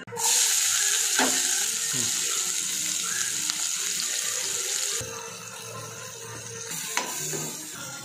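Sliced shallots and curry leaves frying in hot oil in a nonstick pan: a loud, steady sizzle that starts abruptly and eases a little about five seconds in, with a couple of light clicks.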